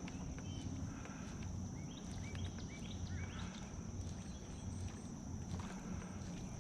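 A small bird chirping, a quick run of short rising chirps about two seconds in, over a steady high drone and a low rumble.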